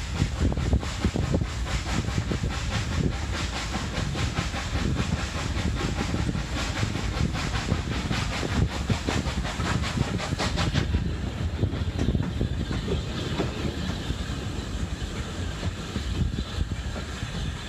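Hunslet Austerity 0-6-0 saddle tank steam locomotive working a train: fast exhaust beats and wheels on the rail joints, with steam hiss. About eleven seconds in, the hiss drops away and the sound turns duller while the train keeps running.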